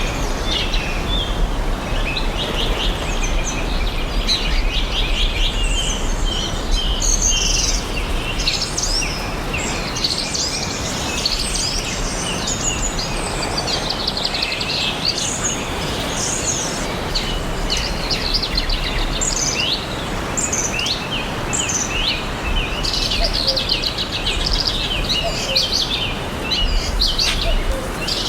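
Several forest songbirds chirping and singing together: many short trills, rapid chirp runs and quick sweeping notes overlapping without a break, over a steady background hiss and low rumble.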